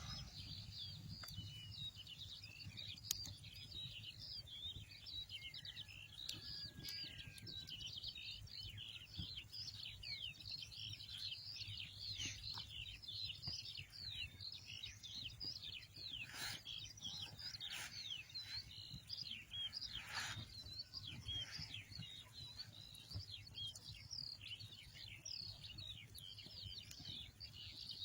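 Many small birds chirping and calling over one another in a dense, continuous chorus of short high notes, with a low steady rumble beneath.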